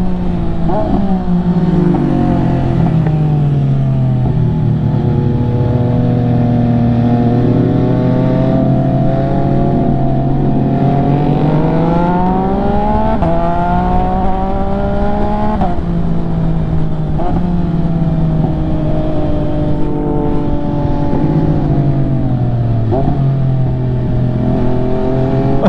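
MV Agusta F3's inline three-cylinder engine under way, over wind noise. Its note sags early on, climbs steadily under acceleration, then drops sharply twice in quick succession near the middle as gears change, and settles into a steady cruise.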